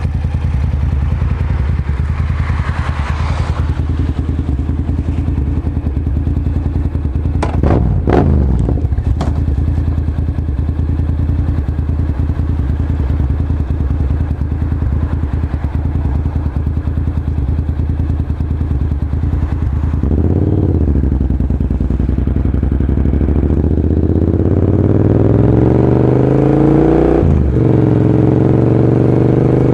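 Honda NC700S parallel-twin engine running through a Leo Vince carbon aftermarket exhaust: a steady idle with a few sharp knocks about 8 seconds in, a short blip of the throttle about 20 seconds in, then the revs climbing steadily near the end with a brief dip.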